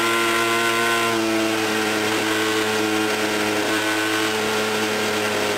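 Suzuki RG125γ's single-cylinder two-stroke engine running at steady revs, with a slight change in pitch about a second in.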